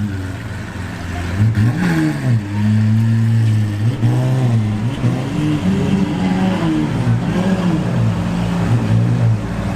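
Exotic sports car engine idling and being revved in a series of quick throttle blips, its pitch rising and falling five or six times.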